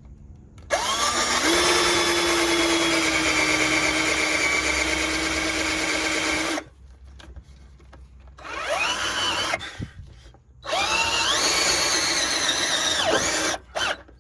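Electric power drill running three times as a bracket is fastened over a rusted-through car body section: a long run of about six seconds, a short burst, then another run of a few seconds. Each run spins up with a rising whine and winds down when released.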